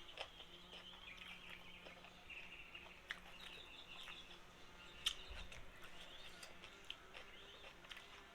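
Faint chirping and twittering of small birds, with a few scattered sharp clicks.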